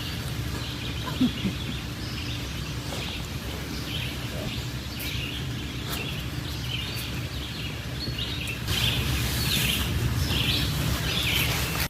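Small birds chirping over and over in short calls over a steady low rumble of outdoor background noise, getting louder near the end.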